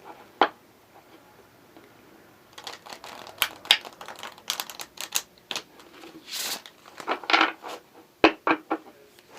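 A deck of oracle cards being shuffled and handled by hand. There is a single snap about half a second in, then a run of quick card clicks, riffles and slides from about two and a half seconds on.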